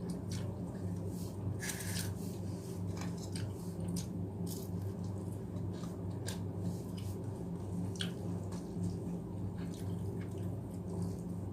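Close-miked eating sounds of rice and mashed potato: irregular small clicks and smacks of chewing and mouth noise over a steady low hum.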